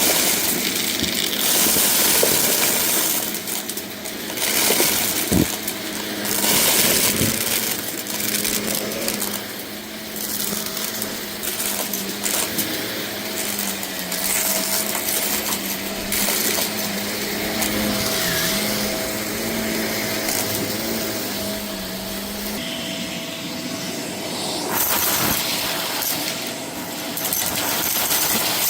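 Vacuum cleaner running with a steady motor hum and rushing airflow, sucking up hard bits of debris from a rug that clatter and rattle through it. About 22 seconds in the hum changes and drops lower.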